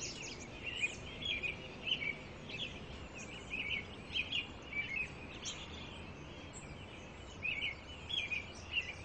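Small birds chirping, short high chirps coming every second or so over a faint steady background hum.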